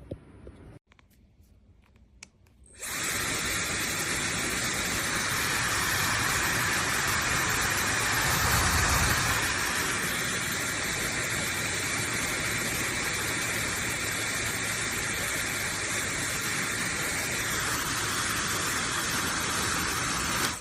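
Laifen SE high-speed hair dryer switched on about three seconds in, blowing steadily as a loud rush of air with a faint high motor whine; the tone shifts slightly near the end.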